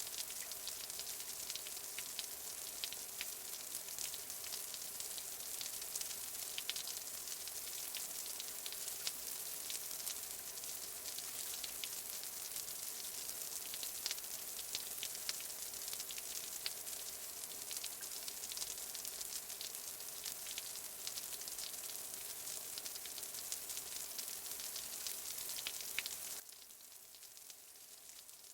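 Steady rain falling, a continuous hiss dotted with many small drop ticks. About 26 seconds in it cuts suddenly to a quieter, thinner rain hiss.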